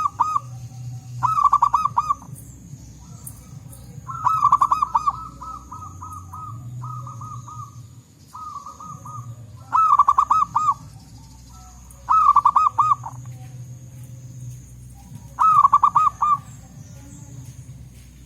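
Zebra doves (perkutut) calling. About eight bursts of fast, evenly repeated cooing notes come one after another, some loud and some fainter, as several birds answer each other.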